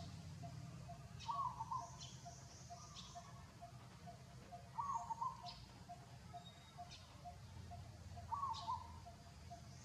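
Birds calling: a short warbled call comes back about every three and a half seconds, over a soft, steady series of short notes about three a second.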